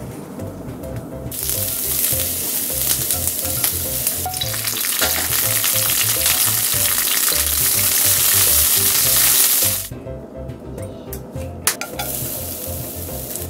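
Eggplant pieces and then shishito peppers sizzling loudly in hot oil in a frying pan. The sizzle cuts off near ten seconds in. After a few light clicks, a quieter sizzle starts near the end as chopped ginger goes into the oil.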